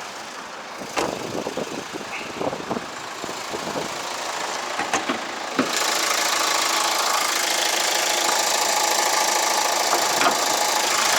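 Scattered clicks and knocks of the bonnet being released and lifted. Then, about halfway through, a sharp click and the Kia Sportage R's idling engine suddenly becomes louder and steady, as it would with the bonnet open.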